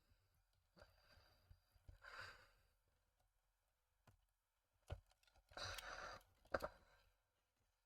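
Near silence broken by a few faint clicks from small plastic model parts being handled, and two soft breaths or sighs.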